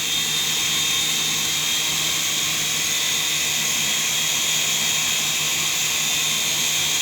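Small indoor RC helicopter flying: its electric motor and rotor give a steady high whine.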